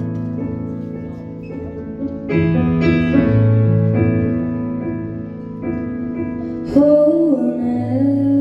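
Piano playing slow, sustained chords as a song's introduction, with a woman's voice beginning to sing near the end.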